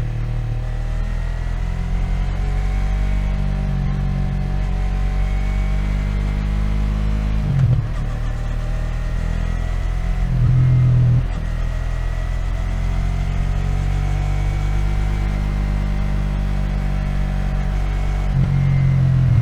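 Yamaha MT-03 parallel-twin motorcycle engine running steadily at low revs in city traffic, picked up close on the bike, with short louder throttle openings about eight seconds in, around eleven seconds, and again near the end.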